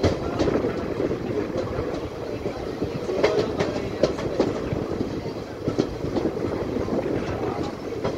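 A moving Indian Railways passenger coach heard from its window: the steady rumble of the wheels on the track, with sharp clacks now and then as they cross rail joints.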